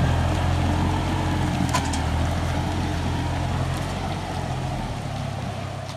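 Deutz-Fahr 4055 tractor's diesel engine running steadily, easing off in level over the last couple of seconds.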